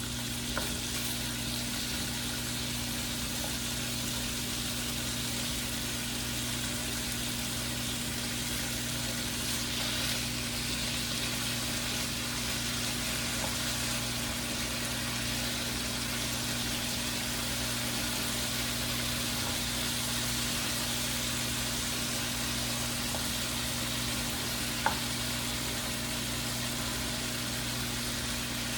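Chicken pieces sizzling steadily in a frying pan, over a steady low hum. A single short click near the end.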